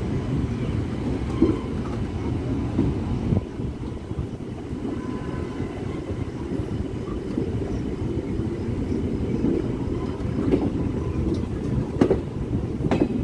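Train running on the rails: a steady low rumble of wheels and carriages, with a few sharp clicks from the track.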